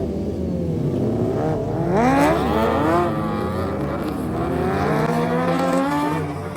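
A vehicle engine revving hard, its pitch falling at first, shooting up sharply about two seconds in, dropping, then climbing again.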